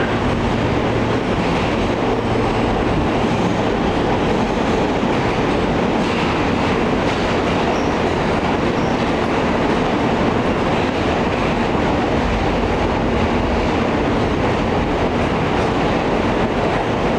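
Interior of an Alstom R160A subway car running through a tunnel: steady, loud wheel-on-rail and car rumble.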